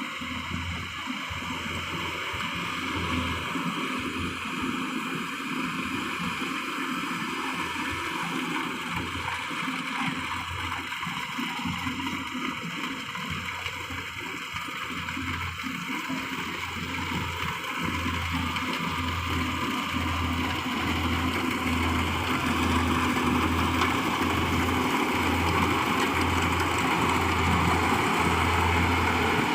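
Rice combine harvester running steadily, a continuous machine noise with a low pulsing hum, growing louder over the second half.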